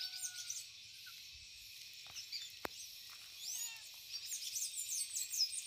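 Several wild birds chirping in quick, high, falling notes, with a rising whistled call about two-thirds of the way in, over a steady high hiss. One sharp click about halfway through.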